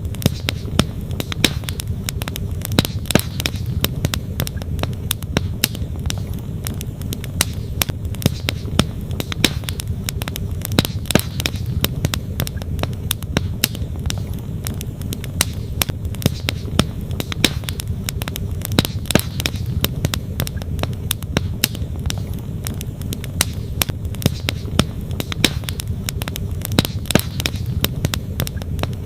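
Wood campfire crackling and popping in quick irregular snaps, over the steady low rush of a flowing stream.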